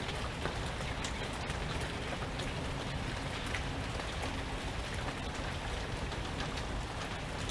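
Steady rain falling, with many individual drops ticking, over a low rumble of wind.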